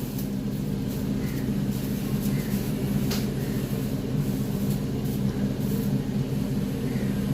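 A steady low machine hum with several fixed pitches, unchanging throughout.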